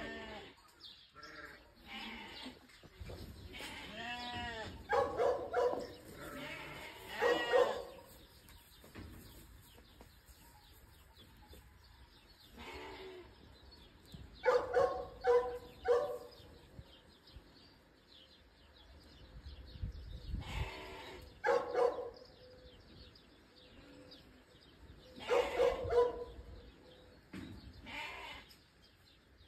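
Animal calls: short pitched cries in clusters every few seconds, with quieter stretches between.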